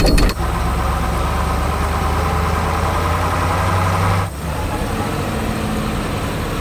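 A heavy construction vehicle's engine running steadily at idle. About four seconds in it dips briefly and gives way to a slightly quieter steady engine sound.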